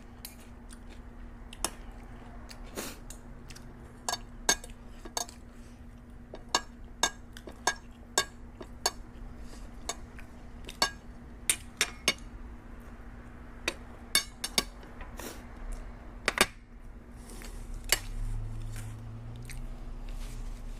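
Cutlery clinking against a plate while eating, with sharp, irregular clinks about once or twice a second over a steady low hum.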